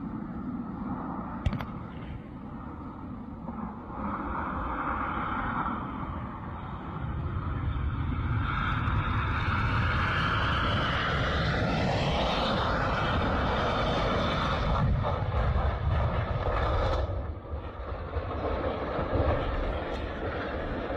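Jet aircraft engine noise, growing louder about a third of the way in, with a sweep in pitch around the middle as the aircraft passes.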